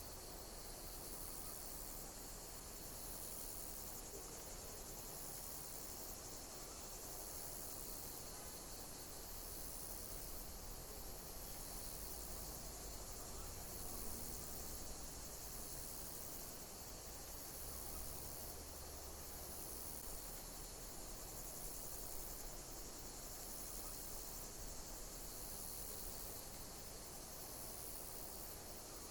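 Insects chirping: high-pitched calls that repeat evenly every second or two over a steady background hiss.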